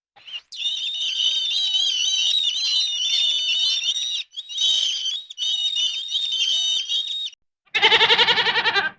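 A dense chorus of high-pitched chirping that breaks off twice and stops about a second before the end. It is followed by one loud, quavering goat bleat.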